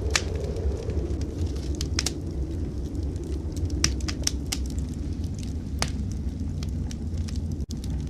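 Wood fire crackling in a fireplace, with scattered sharp pops over a steady low rumble of blizzard wind; the sound drops out for an instant near the end.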